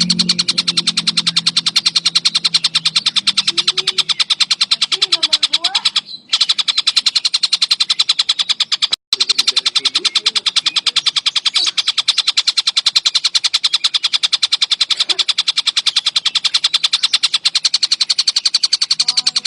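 Tengkek buto kingfisher calling: a long, very fast rattle of sharp, high repeated notes, broken by two brief gaps about six and nine seconds in.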